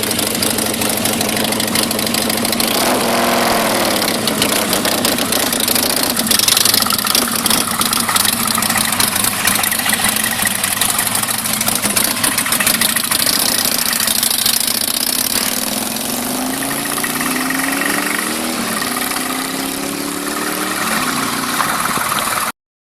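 Harley-Davidson Superlow 883's air-cooled V-twin running loud through an open, unbaffled exhaust, idling with a quick blip of the throttle about three seconds in. Later it is revved several times in rising sweeps before the sound cuts off near the end.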